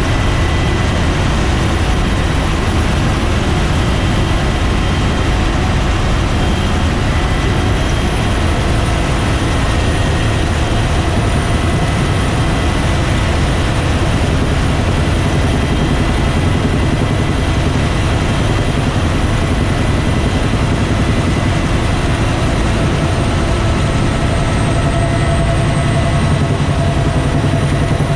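Bell UH-1 Huey helicopter's turboshaft engine and rotor running: a loud, steady drone with a thin, high, unchanging whine over it.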